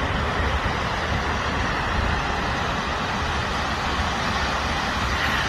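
Steady roar of ocean surf.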